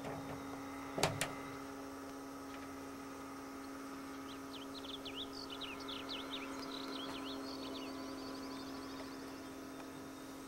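Steady low hum throughout, with a sharp knock about a second in. From about four to eight seconds in, a bird chirps in quick rising and falling notes, ending in a short trill.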